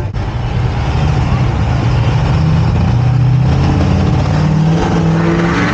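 Motor vehicle engine running under road noise, accelerating with its pitch rising in steps through the middle.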